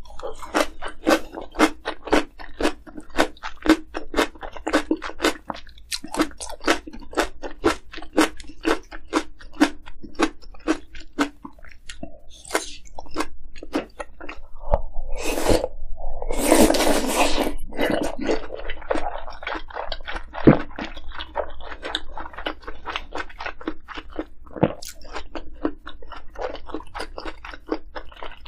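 Close-miked chewing with rapid crunching of kimchi, about two to three crunches a second. About halfway through comes a louder noisy stretch lasting a couple of seconds.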